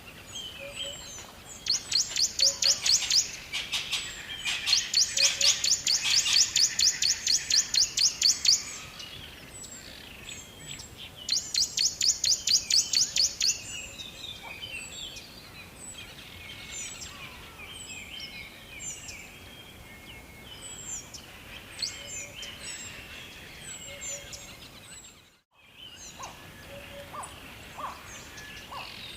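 Songbirds chirping. One bird gives long, fast runs of rapid, evenly repeated high chirps, three times over, while other birds make scattered short calls in between. The sound drops out completely for a moment about 25 seconds in.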